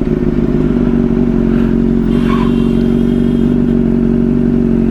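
Sport motorcycle's engine running at a steady, even pitch while under way.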